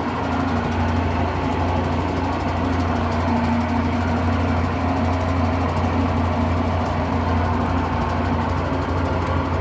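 Electrolux LM08 washing machine in its spin cycle: a steady motor and drum hum that grows a little about a second in, then holds. The load spins unbalanced, which the repairer puts down to broken suspension springs.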